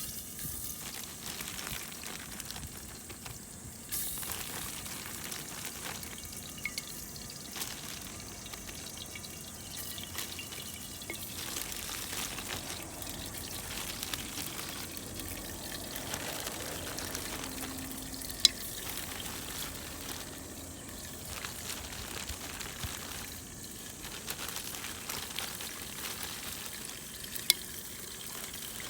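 Food sizzling and frying in a pot over a wood fire, a steady sizzle with scattered small crackles and two sharp pops, one just past the middle and one near the end.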